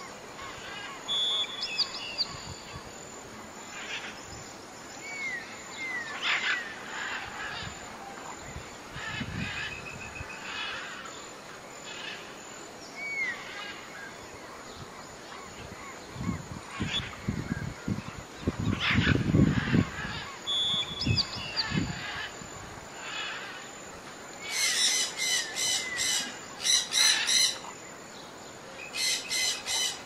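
Small songbirds chirping and whistling, with a few low thumps a little past halfway. Loud harsh, rasping bird calls come in repeated bursts near the end.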